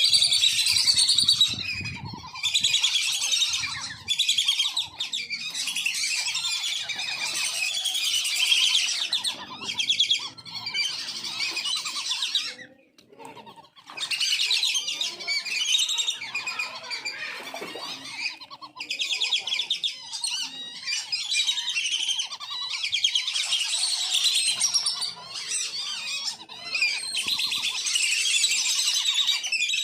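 A flock of wandering whistling ducks calling nonstop, many high, shrill whistles overlapping, with a brief lull about thirteen seconds in.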